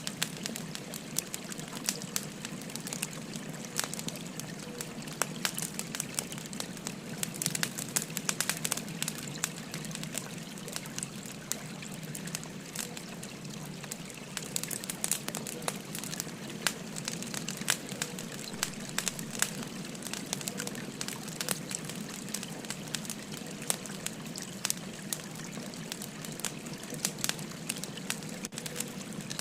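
Firewood crackling with frequent sharp pops and snaps, over the steady babbling rush of a river.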